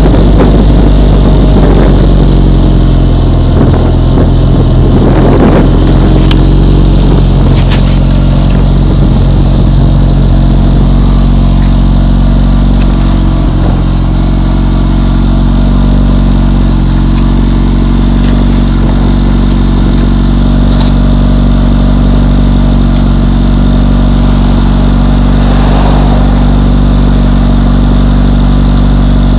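Modified turbocharged car engine with 780cc injectors and a built block, idling steadily on a cold start at an even pitch.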